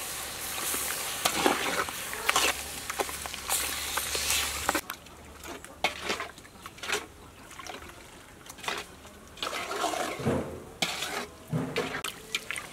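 Pork pieces sizzling in a pot of sauce while a metal ladle stirs them, clinking and scraping against the pot. The sizzle drops away about five seconds in, leaving the scrapes and clinks of the stirring.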